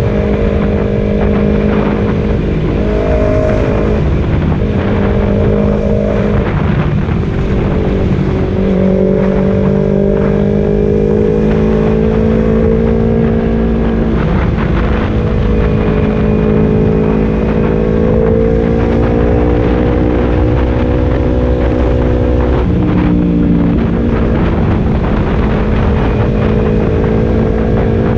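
Kawasaki Z250 with a Leovince Cobra aftermarket exhaust, running steadily while warming up. Its engine speed steps slightly up and down several times.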